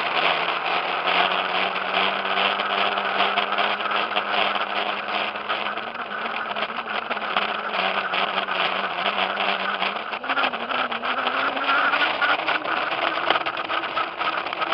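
Dirt bike being ridden, heard from a camera mounted on the bike. Its motor holds a steady pitch, then rises about ten seconds in, with constant rattling clicks over the running noise.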